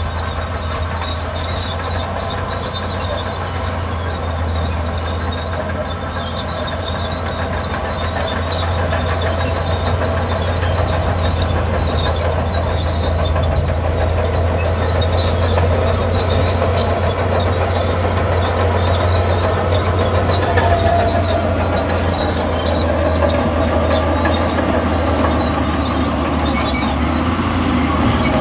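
Crawler bulldozer working: its diesel engine runs steadily, with the metallic squeal and clatter of its steel tracks flickering over it.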